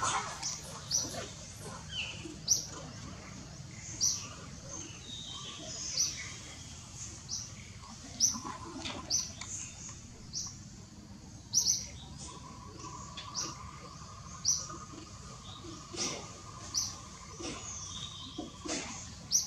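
Small birds chirping: short, high chirps repeated irregularly, about one or two a second. A steady tone comes in about twelve seconds in and holds for some six seconds.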